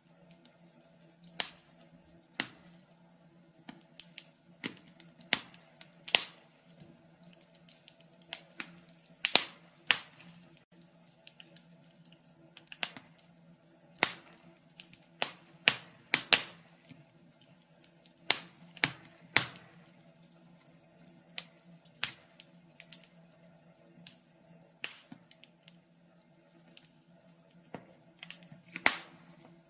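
Wood logs burning in a fireplace, crackling with irregular sharp pops, a few loud and many small, over a faint steady low hum.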